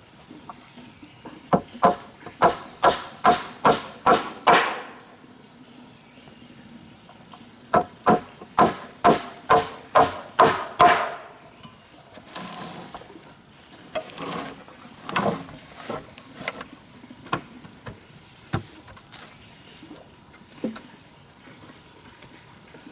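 A hand tool striking repeatedly in two runs of about eight ringing blows each, some two to three a second. These are followed by quieter rustling and scattered knocks.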